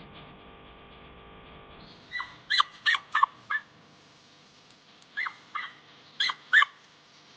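A string of short, sharp, high animal calls, each dropping in pitch: about five in quick succession a couple of seconds in, then four more a second and a half later. Before them there is only a faint steady hum.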